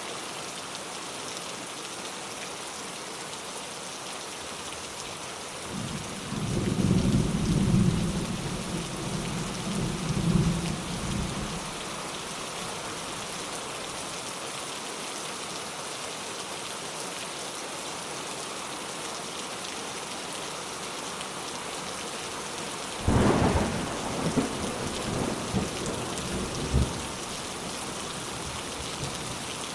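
Steady rain with thunder: a low rolling rumble builds about six seconds in and fades after about five seconds, then a sudden sharper clap of thunder comes a little past twenty seconds and rumbles on for a few seconds.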